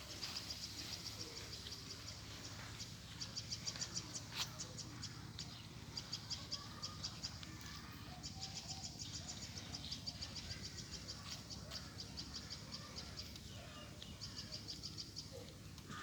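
A bird calling in quick runs of high chirps, about ten a second, each run lasting a second or so and coming again every few seconds, over a low steady hum. A single sharp click about four seconds in.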